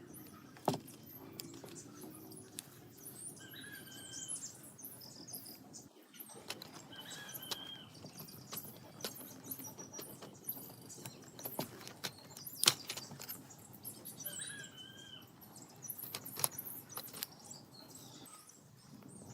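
Scattered sharp clicks and taps, as of hand-tool work on small parts, with the loudest taps about a second in and near two-thirds of the way through. Behind them a short chirping call sounds three times.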